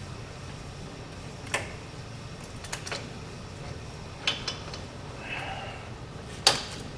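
Hand tools and metal parts clinking and clicking against each other while working on a truck's wheel hub and brake assembly: about six separate sharp clinks, the loudest near the end.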